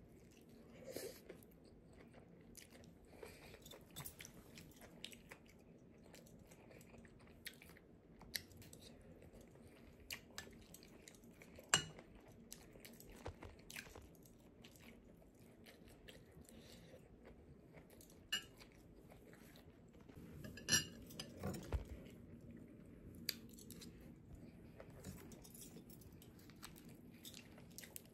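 Close-up chewing and crunching of an egg roll and shrimp fried rice, with scattered sharp clicks and taps of a metal fork against a glass bowl. The loudest click comes about twelve seconds in.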